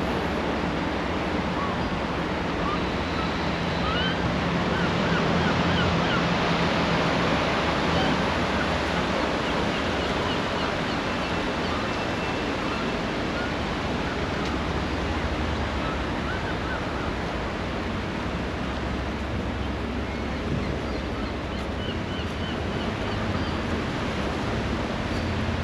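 Sea surf washing onto the beach, a steady rush that swells and eases a little, with a few faint high chirps over it.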